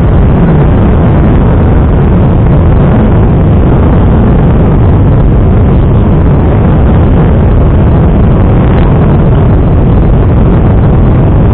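Motorcycle on the move: a loud, steady rush of wind over the microphone mixed with engine noise.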